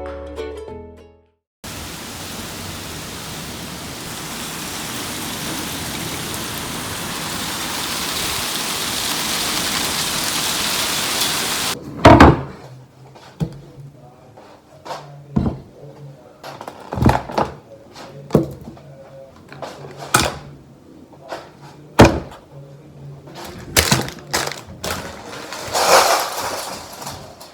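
A steady rushing noise that grows gradually louder for about ten seconds and then stops abruptly, followed by a run of separate sharp knocks and clunks, like things being handled and set down in a kitchen.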